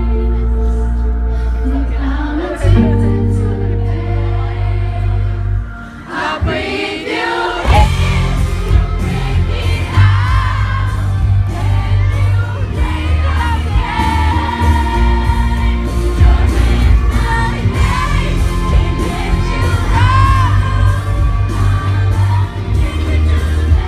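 Live pop song with female voices singing in harmony over a loud, bass-heavy backing track, with the audience audible. The bass drops out about six seconds in, then the full song comes back in about a second and a half later.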